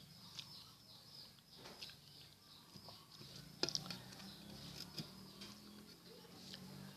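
Faint close-miked chewing of rice and omelette, with irregular wet mouth clicks and smacks. A small cluster of louder clicks comes a little past halfway.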